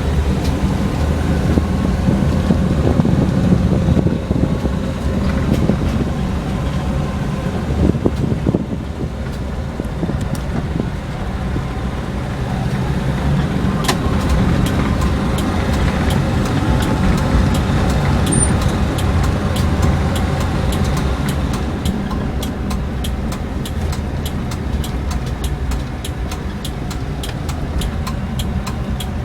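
1996 Toyota Kijang Super SX's 7K gasoline four-cylinder engine running while driving, with steady road and tyre noise. A run of faint, regular ticks comes in over the last several seconds.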